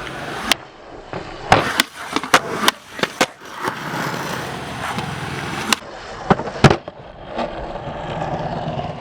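Skateboard wheels rolling on pavement, broken by a series of sharp clacks of the tail popping and the board landing, several in quick succession in the first three seconds and more around six to seven seconds in.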